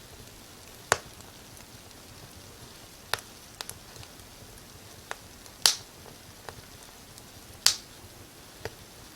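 Wood fire crackling in a fireplace: irregular sharp pops and snaps, about eight of them, the loudest two just before and just after the middle, over a faint steady hiss.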